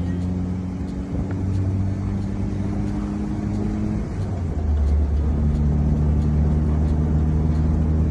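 Classic car engine running with a steady low hum. The engine note changes about four seconds in and settles at a new steady pitch about a second later.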